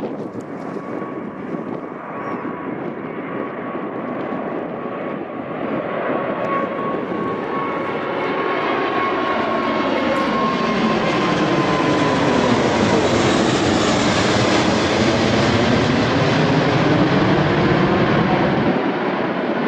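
Airplane engines growing steadily louder as the aircraft passes close by on takeoff. A thin whine drops in pitch about halfway through, and the noise is loudest in the second half.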